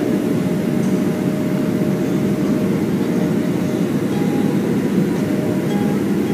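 Steady cabin noise inside a Boeing 737-400: a constant rumble of its CFM56 engines and airflow, with a few faint steady tones above it.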